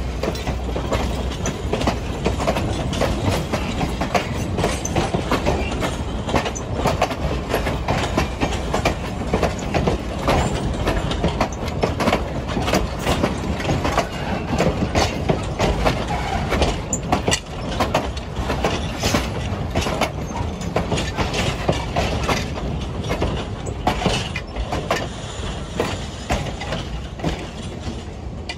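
Diesel locomotive passing close by with its engine running, followed by passenger coaches rolling past, their wheels clattering steadily over the rail joints.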